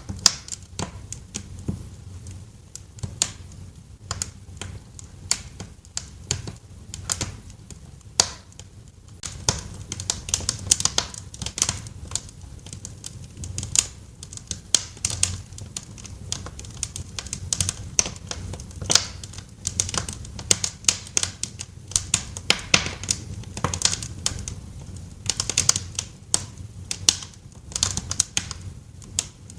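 Wood fire crackling in a fireplace: irregular sharp pops and snaps, some in quick clusters, over a steady low rumble of the burning logs.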